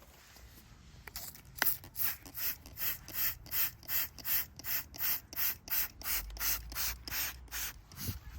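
Hand sprayer squirting soapy water in quick repeated hissing bursts, about three a second, spraying a courgette plant against black fly.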